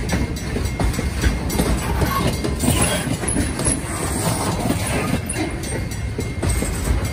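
Loaded DODX military flatcars rolling past, their steel wheels rumbling on the rails and clacking over the rail joints in a steady stream of irregular knocks.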